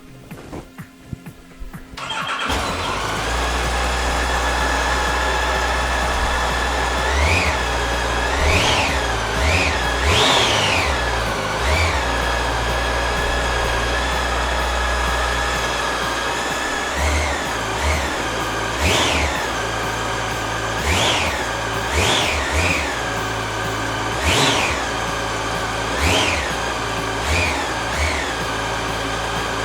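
A 2013 Yamaha Fazer 8's 779 cc inline-four engine with its standard exhaust starts about two seconds in and settles to a steady idle. It is then blipped with short throttle revs, about sixteen in all, each rising and falling quickly, with a pause of a few seconds at idle in between.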